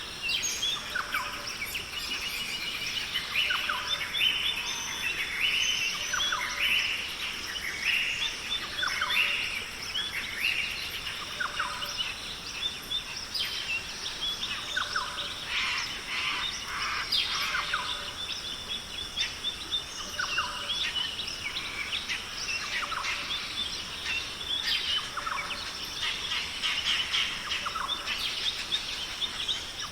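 A dense chorus of many birds chirping and calling without pause, over a steady high-pitched background drone.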